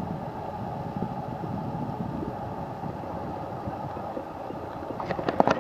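Steady, muffled rumble of distant traffic and wind, heard through a foam-and-fur covering over the camera's microphone that cuts off most of the higher sound. Near the end, a quick run of sharp clicks and knocks starts.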